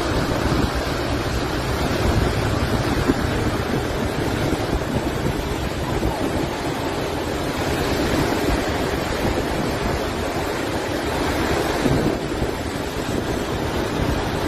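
Steady, loud noise of strong wind and rushing water, with gusts hitting the microphone.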